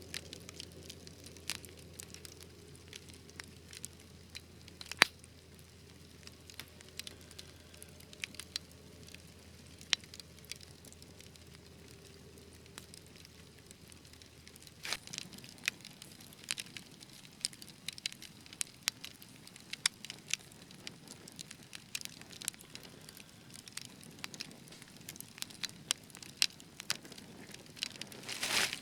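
Wood fire crackling, with irregular sharp pops, one louder pop about five seconds in. The pops come more often from about halfway, and there is a brief louder burst near the end.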